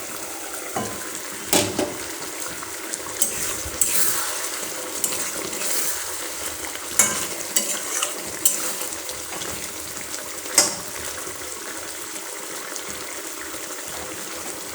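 Yoghurt chicken curry sizzling in a pan as it is stirred, with a steady hiss and scattered sharp clinks of the utensil against the pan.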